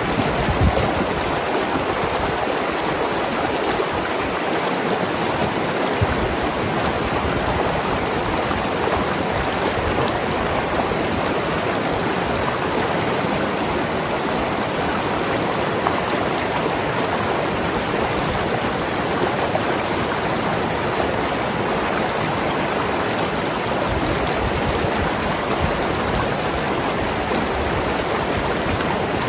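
Mountain river rushing over rocks: a steady, even noise of flowing water, with the odd faint thump of water against stone.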